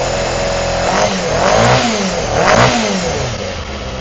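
Honda CBR250RR MC22's 250 cc inline-four engine running, blipped twice so that the revs rise and fall back. It is now running cleanly with its two misfires cured: a fouled plug on cylinder 4 and a lean pilot circuit on cylinder 1.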